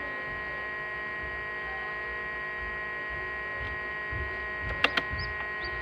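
Egg incubator running with a steady electrical hum made of many even tones. Two sharp clicks come close together near the end.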